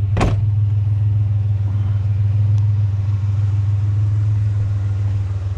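Truck engine idling with a steady low drone, and a single sharp knock just after the start.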